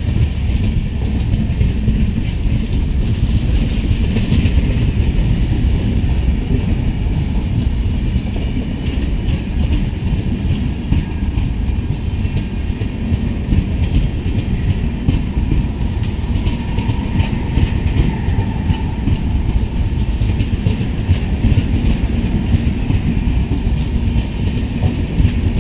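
Passenger coaches of a departing express train rolling past close by, a steady rumble of wheels on the track. A faint thin tone rises over it for a few seconds past the middle.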